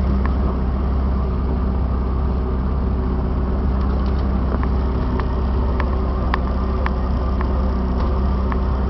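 A 35-horsepower outboard motor pushing the boat along, running steadily with a low, even drone. A few faint clicks sound over it in the middle.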